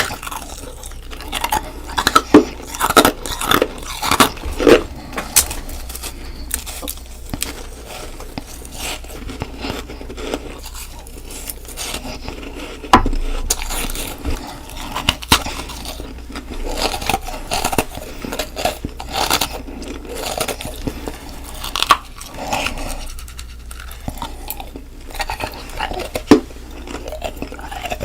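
Ice being bitten and crunched close to the microphone: a steady run of sharp crunches and crackles, some much louder than others, with softer scraping between bites.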